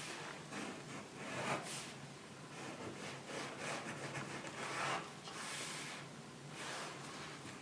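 Permanent pen drawing on thick watercolour paper, inking over pencil outlines: a run of irregular scratchy strokes, some short and some longer.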